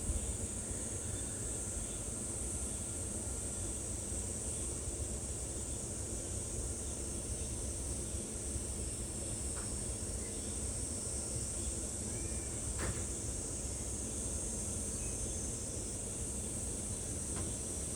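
Insects calling in a steady, unbroken high-pitched drone over a low rumble, with a few faint short chirps about two-thirds of the way through.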